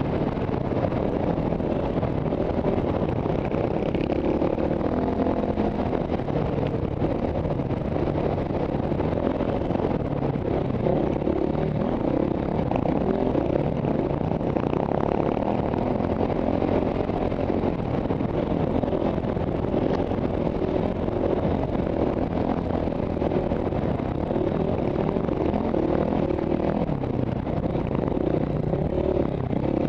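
KTM single-cylinder four-stroke enduro motorcycle engine running under load on a sandy trail, heard from the rider's helmet. The revs rise and fall continually as the throttle is worked.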